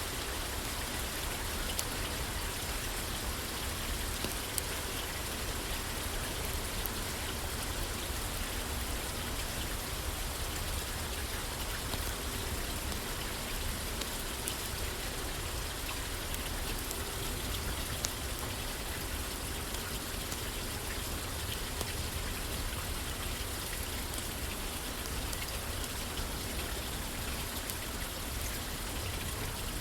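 Steady rain falling on a roof, an even hiss with scattered sharp little clicks.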